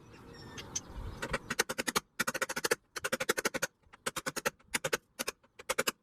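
Short runs of rapid, sharp clicks, several clicks in each burst, repeating with brief pauses between the runs.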